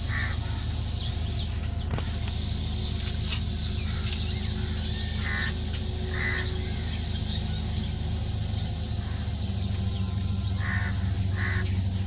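Birds calling outdoors in short calls, one near the start and then two pairs, each pair under a second apart, over a steady low hum.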